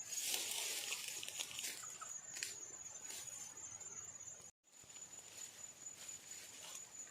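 Steady high-pitched insect drone with scattered rustling and clicks. The sound cuts out completely for a moment about halfway through, as at an edit.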